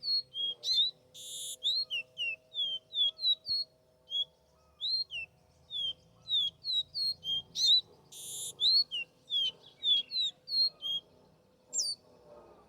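Songbird singing a long, fast run of short clear whistled notes, each a quick slide in pitch, two or three a second, broken by two short harsh buzzy notes, one about a second in and one about eight seconds in.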